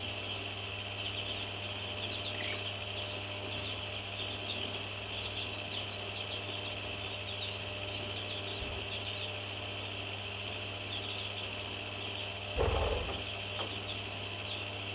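A crowd of baby parrots chirping continuously in many short, high calls, over a steady low hum. One brief louder knock near the end.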